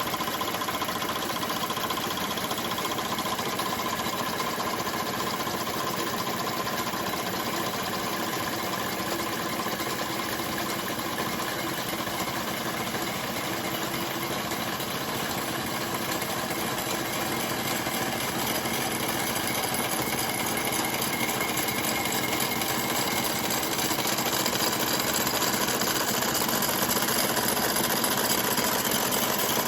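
Model steam engines driving the belt-driven machinery of a model workshop, running steadily with a mechanical clatter; it grows a little louder over the last few seconds.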